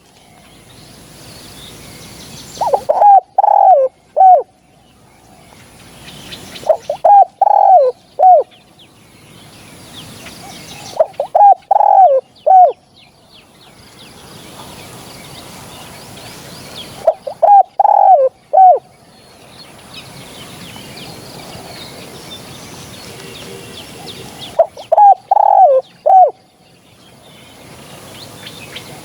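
Spotted dove cooing: five loud phrases of three or four short notes each, coming every five to seven seconds, with faint chirps and hiss in the gaps.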